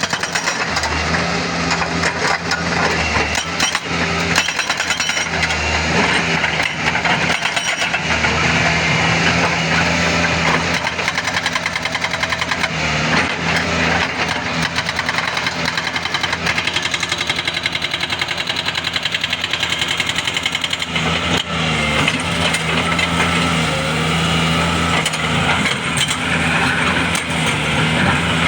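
Doosan DX140W wheeled excavator's diesel engine running steadily under load, with a dense rapid clatter over it throughout.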